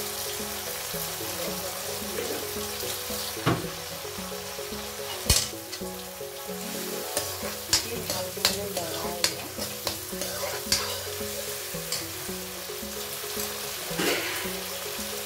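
Mustard masala sizzling in oil in a kadai while a steel spoon stirs it, with sharp clicks of the spoon knocking and scraping against the pan, most of them in a cluster through the middle.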